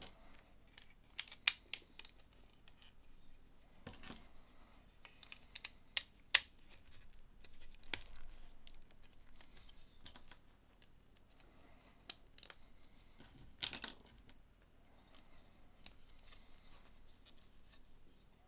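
Small plastic LEGO pieces being handled: sharp clicks and taps as parts are picked up and pressed together, irregularly spaced, with short rustling stretches between them.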